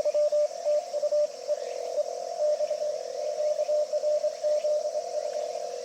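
Morse code (CW) tones from an amateur radio transceiver: crisp keyed dots and dashes for about the first second, then several signals overlapping at slightly different pitches, keyed over one another.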